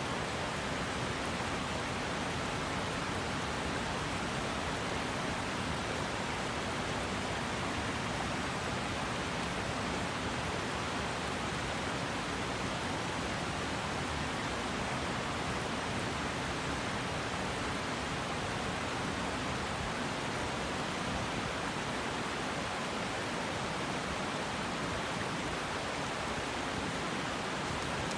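River water rushing steadily over its bed: an even, unbroken rush.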